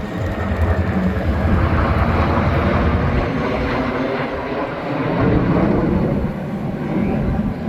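Jet noise from the Black Eagles' KAI T-50B aerobatic jets flying past: a loud, steady rumble and hiss that swells over the first second or two and eases slightly near the end.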